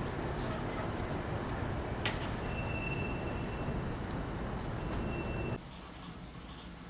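Steady rumbling vehicle noise with a faint high whine in the middle, cutting off abruptly about five and a half seconds in to a much quieter background.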